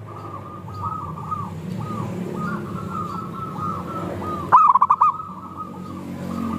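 A chorus of zebra doves (perkutut) cooing: many overlapping coos further off, with one loud, close coo phrase of quick notes about four and a half seconds in.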